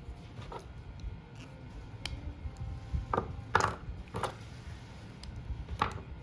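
Fan palm leaf strips crackling and rustling in the hands as they are pulled through the weave, a few sharp crackles, the loudest about halfway through, over a low rumble.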